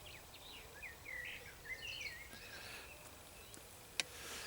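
A songbird singing a faint run of short warbling phrases, quick gliding notes, over steady outdoor background noise. A single sharp click comes near the end.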